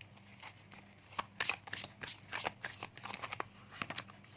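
Tarot or oracle cards being handled: a run of quick papery flicks and rustles as cards are slid and laid down.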